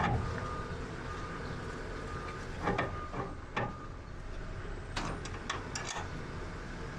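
Forklift engine running steadily, with several sharp metallic clanks and rattles about three seconds in, again near four seconds, and a cluster around five to six seconds in.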